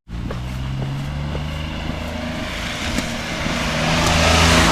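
A motor vehicle coming up close, its engine running steadily. Road and tyre noise grows louder toward the end.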